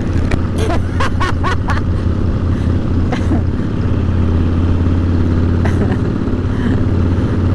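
Motorcycle engine running steadily with an even low drone, with a few short clicks about a second in.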